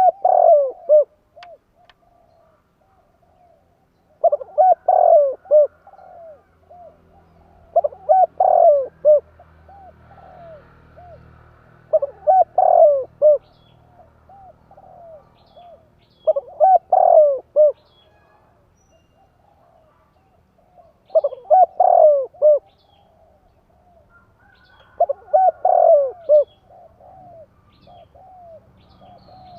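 Spotted dove (tekukur) singing its cooing song, used as a lure call: a phrase of coos repeated about every four seconds, with fainter cooing between the phrases.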